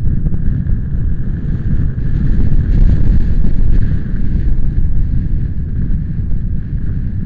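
Strong wind buffeting the microphone: a loud, gusty low rumble that swells about two seconds in and eases off again.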